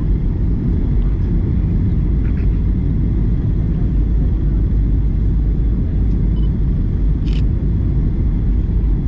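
Steady low rumble of engines and airflow inside the cabin of a Boeing 737-900ER airliner in motion, with one short click about seven seconds in.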